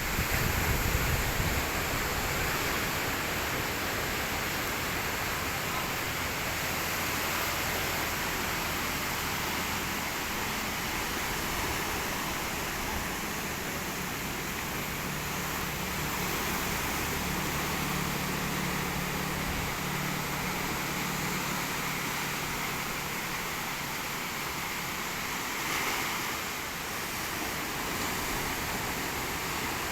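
Steady rush of sea surf breaking on the beach. A low hum joins in for several seconds in the middle.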